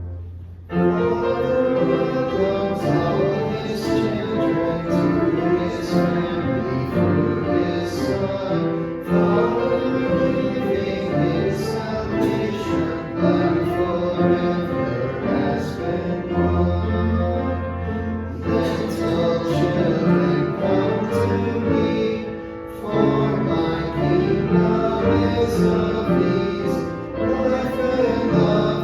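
Voices singing a hymn together with keyboard accompaniment and a sustained low bass note; a new phrase or verse begins about a second in after a brief pause.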